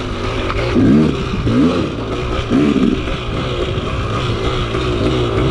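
KTM two-stroke dirt bike engine being ridden on and off the throttle, its pitch rising and falling in quick surges several times in the first few seconds, then running steadier.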